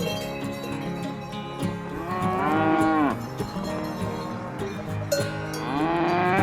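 Cow mooing twice: two long calls, each rising and then falling in pitch. The second begins near the end.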